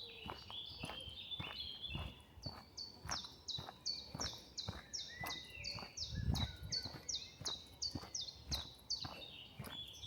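Footsteps on a woodland trail, with birdsong over them. A songbird repeats one high note that steps down in pitch, about three times a second for several seconds, after a few short warbling notes near the start.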